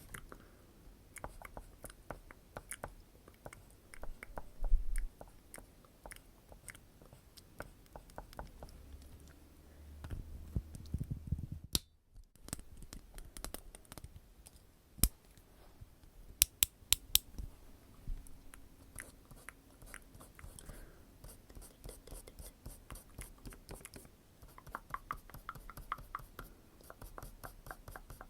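Close-miked ASMR trigger sounds: a long run of small sharp clicks and taps with light scratching, growing quicker and denser in the second half.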